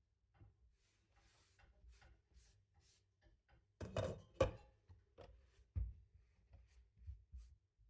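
Kitchenware being handled and set down: scattered light clicks, then a cluster of solid thunks about four seconds in and another single thunk near six seconds.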